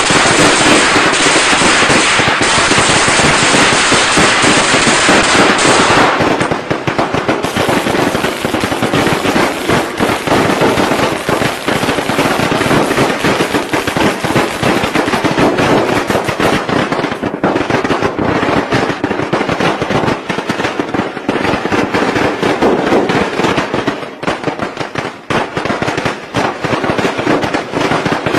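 Strings of traditional Vietnamese Tet firecrackers going off in a dense, continuous rattle of bangs. About six seconds in the sound changes to a slightly less packed run of sharper, more separate cracks.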